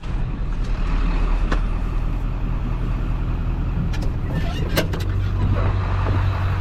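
A motor vehicle driving: a steady low engine hum with road noise, broken by a few sharp clicks and knocks about a second and a half in and again around four to five seconds in.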